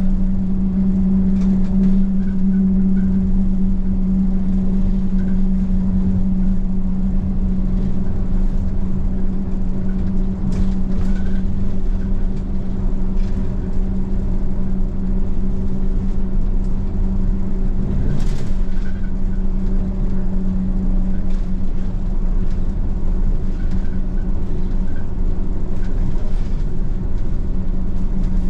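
Bus running along a road, heard from inside the cabin: a steady hum and low rumble from the engine and tyres, with a few faint clicks and rattles.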